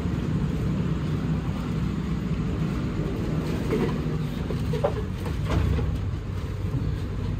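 Steady low rumble and hum of a stationary passenger train running at the platform, heard from inside the door vestibule.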